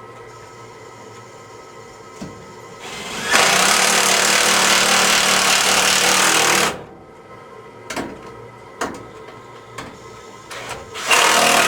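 Power drill driving a screw into the dryer panel, running for about three and a half seconds, then again briefly near the end, with a few clicks of parts and tools being handled in between.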